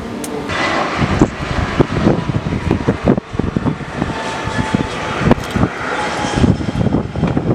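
Jet airliner engines running on a landing approach, with strong gusty wind buffeting the microphone in irregular low thumps.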